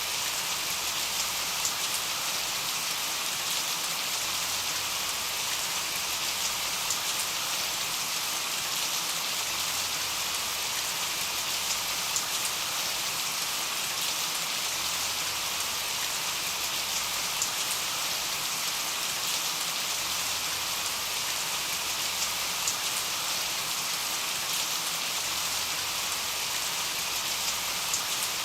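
Steady rain falling: an even hiss, with scattered ticks of individual drops landing.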